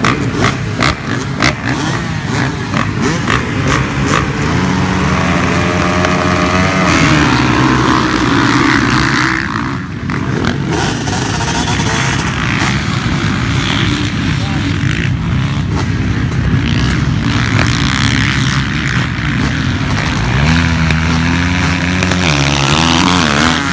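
Dirt bike engines running and revving during a motocross race. The engine pitch climbs about five seconds in and again near the end.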